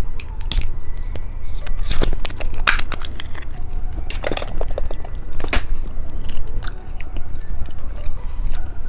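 Close-miked crisp clicks and crackles, coming irregularly every second or so, from a giant hamburger-shaped candy being handled and crunched.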